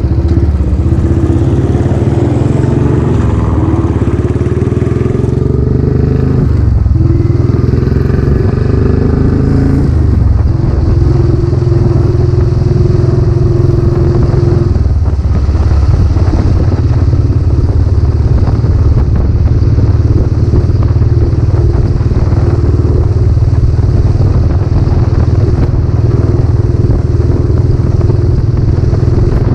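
Royal Enfield Classic 500's single-cylinder 500cc engine running through a newly fitted aftermarket silencer while riding. The engine note rises and drops several times in the first half, then settles into steady cruising.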